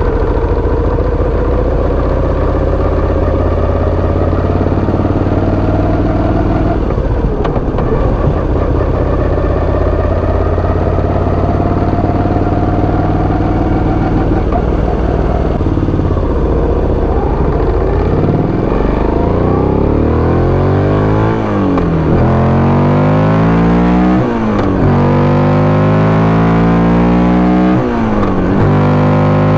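Moto Guzzi V85 TT's air-cooled 853 cc V-twin through a Mistral big-bore header and Y-pipe with an Agostini slip-on, running under way. The pitch rises slowly for the first half, then the bike accelerates through several gears, the pitch climbing and dropping at each upshift about every four seconds.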